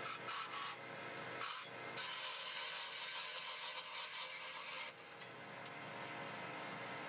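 Scraping on wood, in three strokes: two short ones, then a longer one of about three seconds. This fits sanding or rasping during the feeder build.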